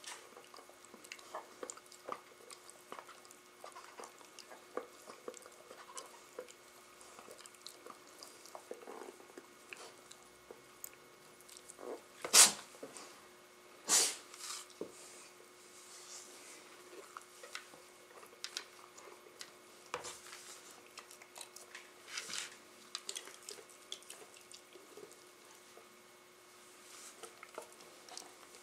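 Labradors and a Rottweiler puppy playing, with many small clicks and scuffles of mouthing and movement. Two loud, brief noisy bursts come about halfway through.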